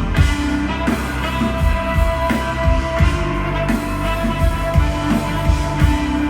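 Live rock band playing an instrumental stretch of a song: drum hits at a steady beat under sustained held notes.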